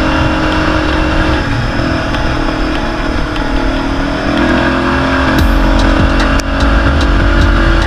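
ATV engine running steadily, with a low rumble that grows louder about five seconds in and a few sharp clicks near the end.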